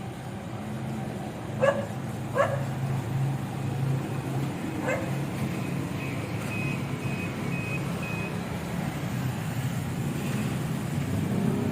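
Truck engine idling steadily. A dog barks three times in the first five seconds, and a run of four short high beeps sounds about two-thirds of the way through.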